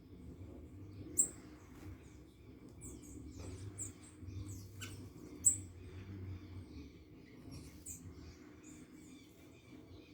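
Small birds giving short, high-pitched chirps and calls, the two loudest sharp chirps about a second in and about halfway through, over a steady low background hum.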